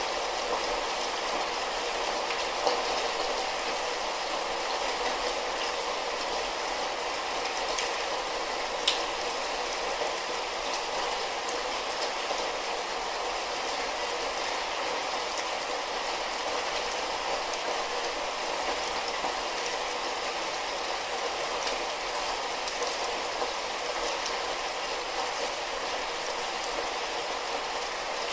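Light rain falling steadily: a continuous even hiss with a few sharp ticks, the loudest about nine seconds in.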